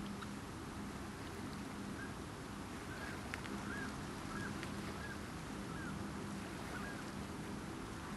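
A bird giving a series of about seven short, evenly spaced calls, over a steady rushing background with a faint low hum.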